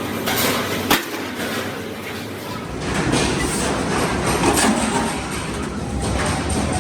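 Hand metalworking on a sheet-steel motorcycle fuel tank: a few sharp knocks over steady workshop noise, which grows heavier about three seconds in.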